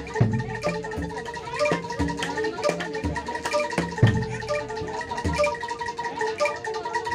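Live Javanese gamelan music accompanying kuda lumping: ringing metal-keyed mallet instruments over regular low drum strokes.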